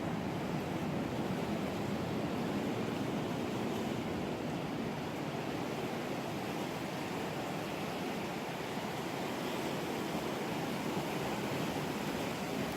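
Steady wash of ocean surf on a beach, an even rushing noise with no distinct breaks.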